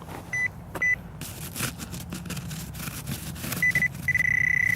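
Handheld metal detecting pinpointer beeping at one steady high pitch: two short beeps, then a few quick pulses that run into a continuous tone as the probe closes in on the buried target. Rustling and scraping noises come in between the beeps.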